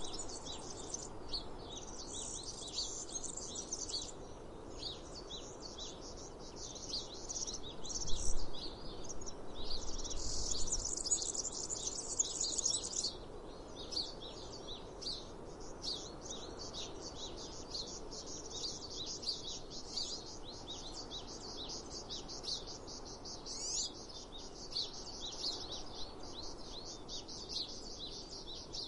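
Small birds chirping continuously in a busy, high-pitched chorus over a steady low outdoor background, with a brief low thump about eight seconds in.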